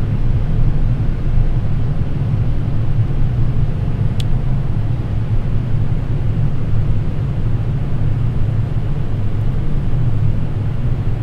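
Steady low rumble of airflow and engines heard inside a Boeing 787 Dreamliner cockpit on final approach, landing gear down and flaps at 20. A short faint click about four seconds in.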